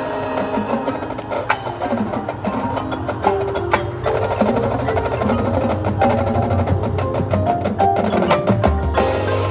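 High school marching band playing its show music: a busy percussion part of sharp clicks and struck notes over a sustained low bass, getting a little louder about four seconds in.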